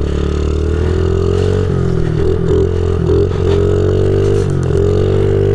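2015 Honda CRF50 pit bike's small single-cylinder four-stroke engine running steadily under way. Its pitch dips briefly a few times as the throttle eases and picks up again.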